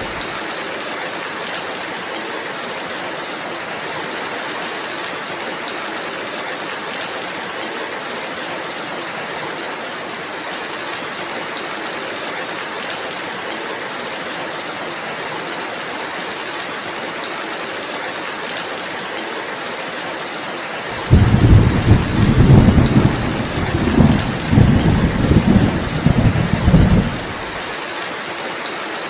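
Steady rain. About two-thirds of the way through, a deep roll of thunder rumbles for several seconds, swelling and falling a few times, then dies away and leaves the rain alone.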